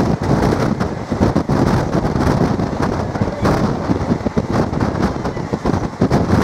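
Passenger train running, heard from on board: a steady loud rumble of the wheels on the rails, with wind buffeting the microphone.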